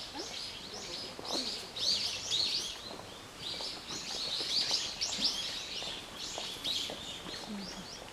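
Birds chirping: many short, high calls in quick succession, overlapping throughout.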